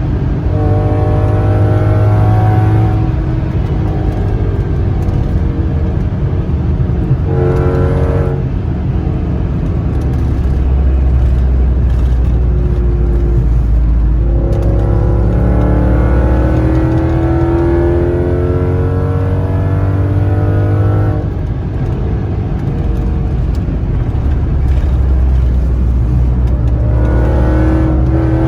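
2002 Audi S6 Avant's naturally aspirated 4.2-litre V8 through a catless 3-inch true dual straight-pipe exhaust with a Magnaflow muffler, under hard throttle. Its pitch climbs in several pulls, the longest lasting about six seconds midway, over a deep, steady drone.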